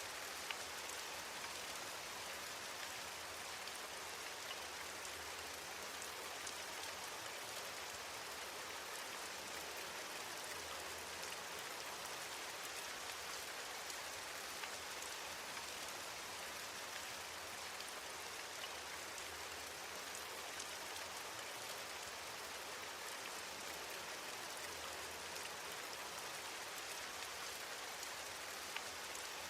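Steady rain, an even hiss with scattered drops ticking on a surface.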